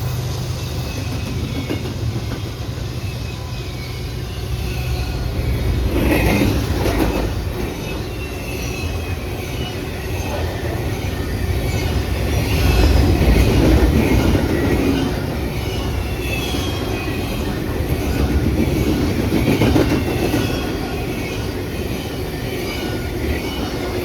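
Freight train cars rolling past, the steel wheels clattering on the rails over a steady low rumble. High wheel squeals come and go, and the sound swells and eases several times.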